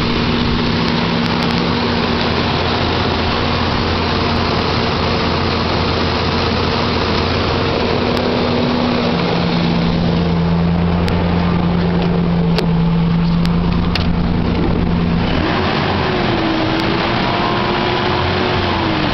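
1998 Ford Ranger's 4.0-litre V6 idling steadily shortly after a cold start. About fifteen seconds in the sound thins out, and a wavering tone slides down near the end.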